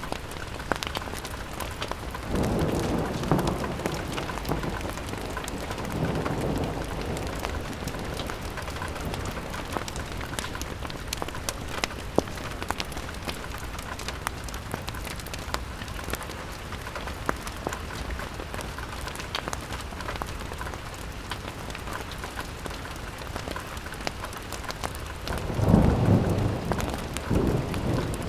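Rain falling steadily on a window, with many sharp little ticks throughout and a few deeper rumbling swells, about two seconds in, around six seconds and near the end.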